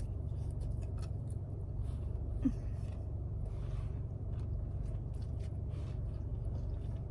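A person chewing food between bites, with faint short mouth clicks, over a steady low hum.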